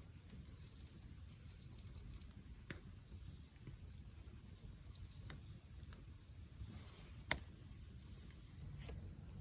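Swedish torch log fire burning faintly, with sparse crackles and small pops of the burning wood, the sharpest pop about seven seconds in, over a low steady rumble.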